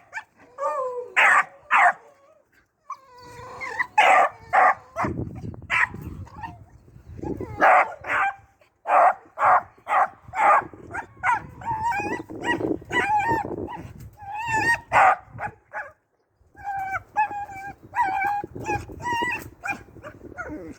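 Puppy barking and yipping in short repeated high calls, several a second in places, with a couple of brief pauses: a young rabbit-hunting dog giving voice while being urged on to a rabbit.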